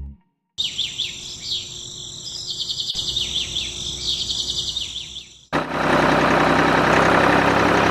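Birds chirping and trilling, high-pitched with quick sweeping calls. About five and a half seconds in, a loud steady rushing noise cuts in suddenly.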